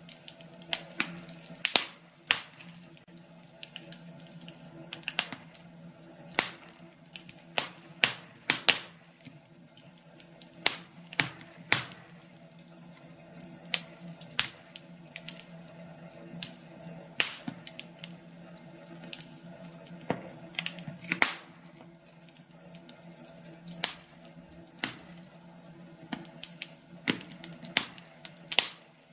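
Wood fire crackling in a fireplace: irregular sharp pops and snaps, a few a second, some much louder than others, over a faint steady low hum.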